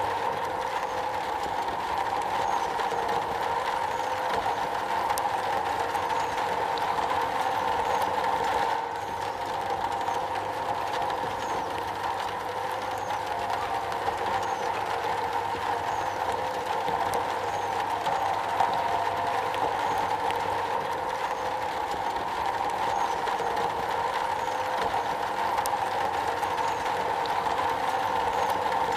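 Steady rain drumming on a metal roof, an even, continuous patter with a slight dip in level about nine seconds in.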